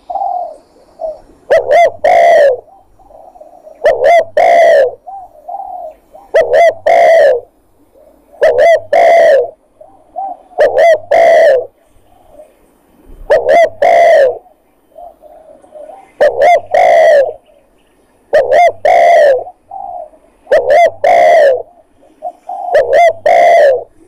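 Spotted dove (tekukur) call used as a hunting lure: loud cooing phrases of two or three notes, repeated about every two seconds.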